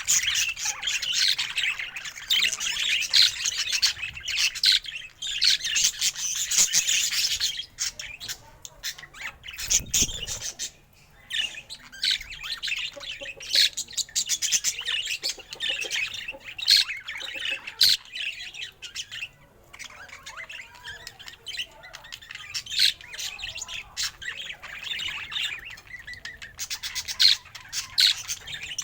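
Budgerigar chattering in rapid chirps and squawks, dense for the first several seconds, then sparser with short gaps, thickening again near the end.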